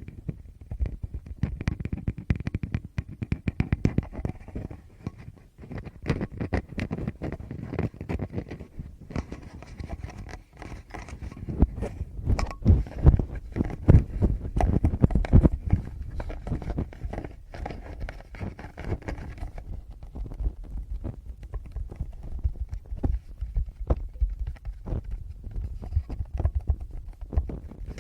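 Fingertips tapping and rubbing directly on a Tascam recorder's microphones: a dense stream of quick taps with low, boomy thuds, growing louder and heavier in the middle.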